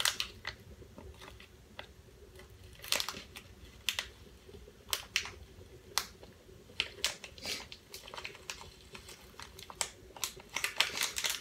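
Irregular clicks, taps and crinkles from a cilantro container being handled and pried at, its lid refusing to open.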